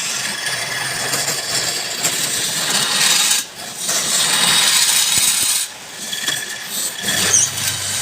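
Turning tool cutting into wood spinning on a lathe: a loud, scratchy hiss that breaks off briefly twice as the tool leaves the wood, about three and a half seconds in and again near six seconds.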